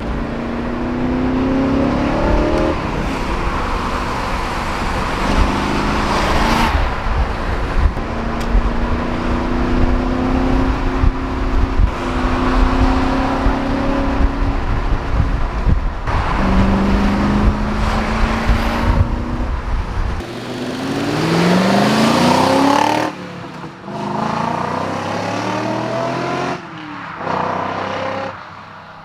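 BMW S62 V8 in an E39 M5 Touring with a straight-piped, resonator-deleted exhaust, accelerating hard through several gears. The engine note climbs in runs and drops at each shift. Near the end it revs up steeply in one fast sweep and then cuts off.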